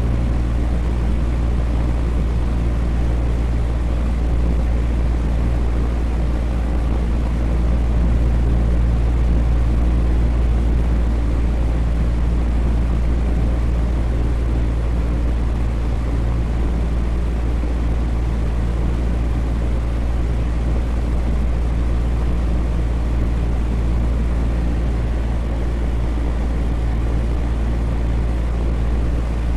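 Electric fan running steadily, a constant low whooshing drone with a faint hum from its motor.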